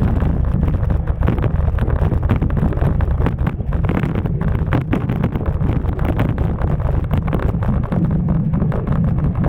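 Wind buffeting the microphone of a camera carried on a moving bicycle: a loud, steady low rumble with constant small crackles.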